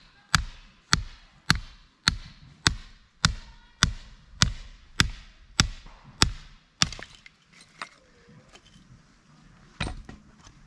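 Firewood being chopped: a steady run of about a dozen sharp strikes, roughly one every 0.6 s, then two more spaced-out blows near the end.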